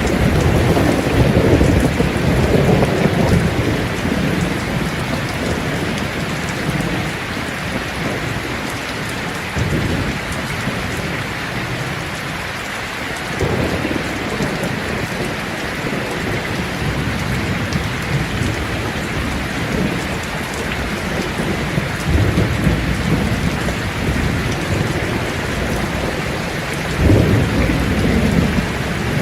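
Steady heavy rain with rolling thunder. Low rumbles swell at the start and again several times, loudest about 27 seconds in.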